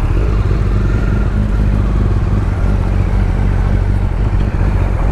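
Motorcycle engine running steadily at low revs, a loud, even, deep engine note.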